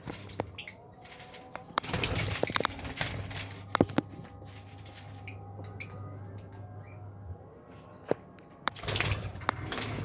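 Lovebirds giving short, high squeaky chirps in small groups, mixed with knocks and rustling as a wooden nest box is handled.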